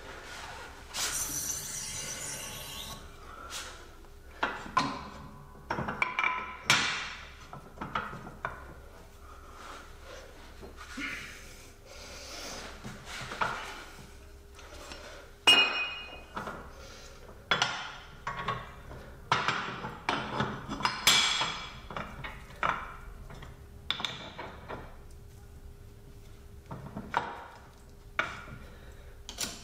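Steel press cups, sleeves and hand tools clinking and knocking against each other and the press while a ball joint is being pressed apart: a long run of irregular sharp clinks and dull thunks, with a faint steady hum underneath.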